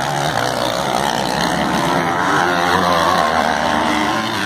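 Several motocross motorcycles racing, their engines revving up and down and overlapping.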